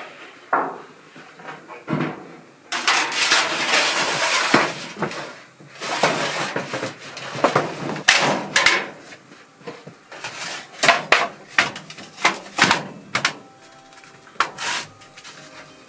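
Irregular knocks and clanks from work on a welded metal fire pit frame, with a harsh scraping rush lasting about two seconds, starting about three seconds in.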